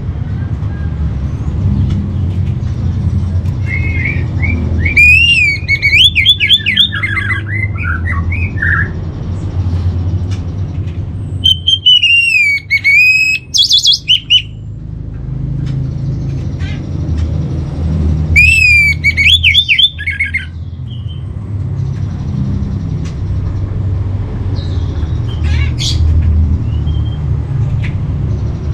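Orange-headed thrush singing: three loud phrases several seconds apart, each a run of clear whistled notes sweeping up and down with quick warbles, with a few softer calls near the end. A steady low rumble runs underneath.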